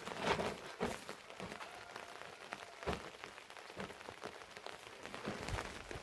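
Rain falling steadily, with many scattered drops and small knocks.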